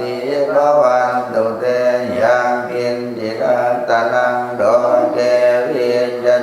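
Group of voices chanting Pali verses in unison in Thai Buddhist devotional style: a continuous low recitation, each syllable held on a near-level pitch before stepping to the next.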